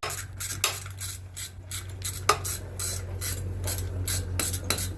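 Hand ratchet wrench worked back and forth to break a bolt loose, its pawl clicking in quick short strokes, about three to four a second, with one sharper snap about two seconds in. A steady low hum runs underneath.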